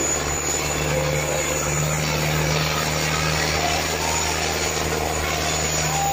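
Preet 6049 tractor's diesel engine running steadily, a constant low drone with no change in pitch or level.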